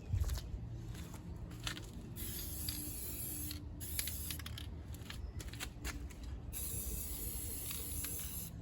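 Aerosol spray paint can hissing in several bursts with short breaks, the longest near the end, as paint goes onto the repaired rust spots on a minivan's body.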